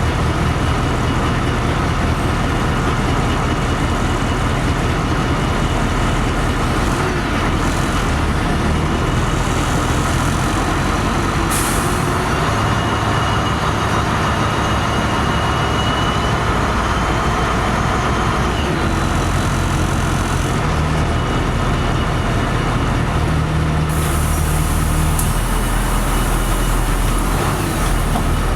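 LiAZ-5256 city bus running, heard from inside, its diesel engine steady underneath. There is a short sharp air hiss about twelve seconds in, and a longer air hiss from about three-quarters of the way through, typical of the bus's pneumatic brakes or doors.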